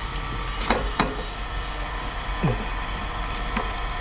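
Steady machinery hum, with two sharp knocks a little under a second in and a short falling squeak about halfway through.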